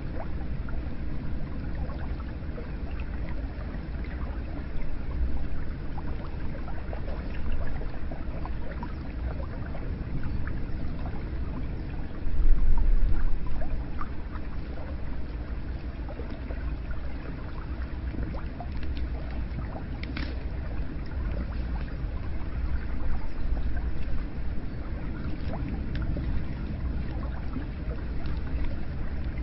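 Hot spring water running steadily, pouring and trickling with small scattered drips, and a brief louder swell about halfway through.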